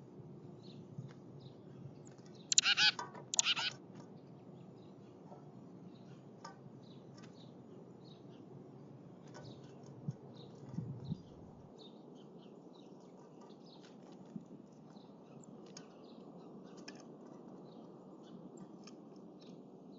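Tufted titmice calling: two loud, harsh, buzzy calls about two and a half seconds in, then faint short chips and ticks scattered throughout, over a steady low background hiss.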